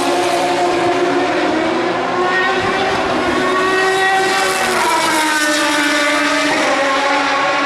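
Endurance racing cars' engines at speed, several at once: the pitch climbs, falls away about five seconds in, then holds steady.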